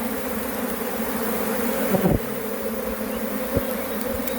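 A honeybee swarm buzzing in the air: a steady, even hum of many bees. About two seconds in, one closer buzz drops in pitch as it passes.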